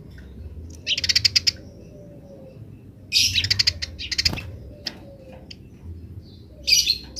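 Eurasian tree sparrows chattering in short bursts, each a quick run of sharp chirps; four bursts, about a second, three seconds, four seconds and near the end.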